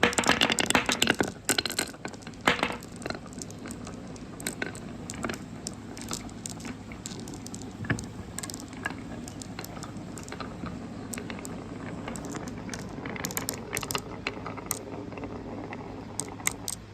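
Marbles clattering along a handmade marble-run track: a dense rattle of clicks in the first two seconds, then scattered single clicks and knocks.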